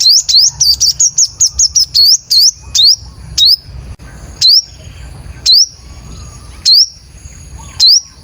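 Sunbird calling: sharp, high chirps that sweep down and back up. They come in a quick run of several a second at first, then slow to single chirps about a second apart.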